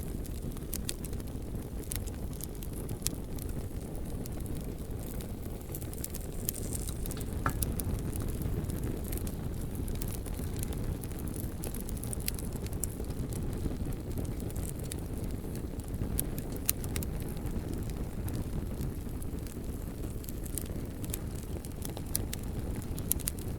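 Wood fire burning steadily with a low roar of flames and scattered sharp crackles and pops from the burning logs.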